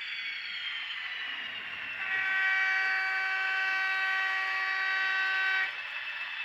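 Diesel locomotive horn sounding one steady tone for about three and a half seconds. It plays over a running hiss with a whine that falls slowly in pitch.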